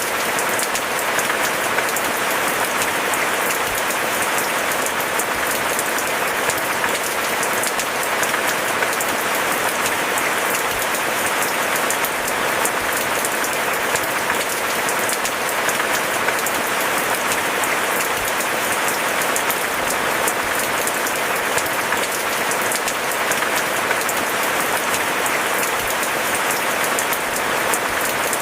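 Steady, heavy rainfall: a dense, unbroken patter of drops with a fine crackle of individual hits.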